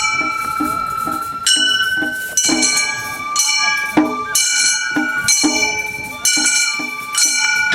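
Gion-bayashi festival music: a bamboo flute holds and steps between high notes over quick, even strikes of small kane hand gongs and drum, about four strokes a second.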